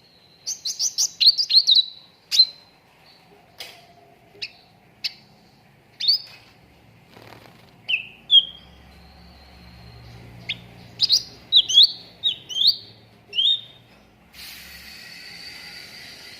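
Cucak ranting bird singing: a quick run of sharp, high chirps at the start, then spaced single notes and short whistles that slide down in pitch, with a cluster of notes near the end. A steady hiss comes in about two seconds before the end.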